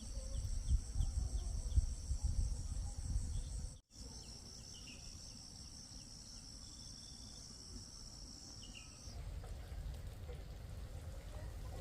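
Insects droning in a steady, high-pitched chorus that stops about nine seconds in, with a few faint bird chirps. A low rumbling noise is loudest in the first few seconds.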